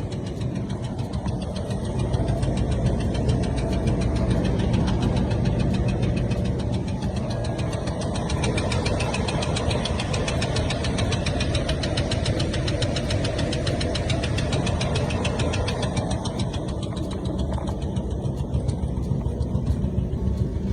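Vintage car's flathead V8 engine running steadily, a little louder from about two seconds in.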